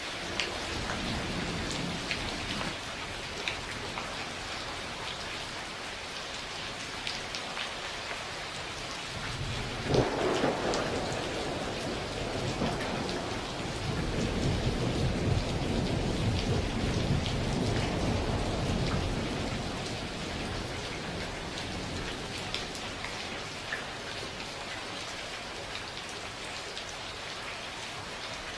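Steady heavy rain with thunder. A faint rumble comes near the start, a sharp thunderclap about ten seconds in, and then a long rolling rumble that fades away, leaving only the rain.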